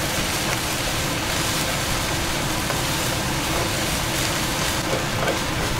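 Steady sizzling of rice, steak and broccoli stir-frying in a hot wok, over a low steady rumble, with a few faint scrapes of a wooden spoon.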